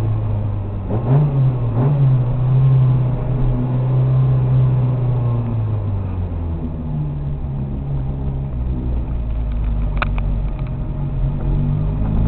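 Autobianchi A112's four-cylinder engine heard from inside the cabin under way, its revs dipping and recovering twice in the first two seconds, settling lower about halfway through and climbing again near the end. A brief high chirp about ten seconds in.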